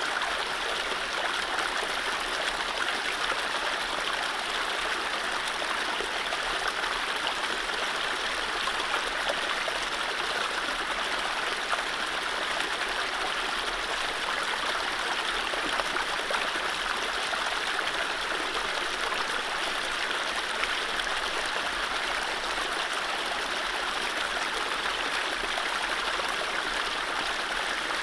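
Mountain stream running over low rapids: a steady, even rush of water with no birdsong.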